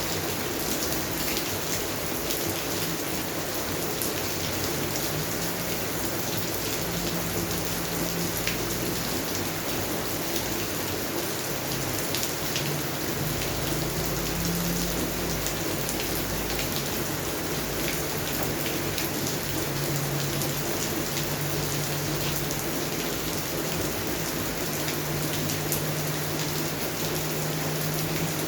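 Steady rain falling on a garden: a constant hiss thick with the small taps of individual drops, over a faint low hum.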